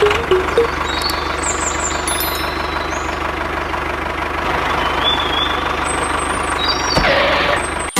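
A motor running steadily with a constant low hum, with a brief burst of noise about seven seconds in.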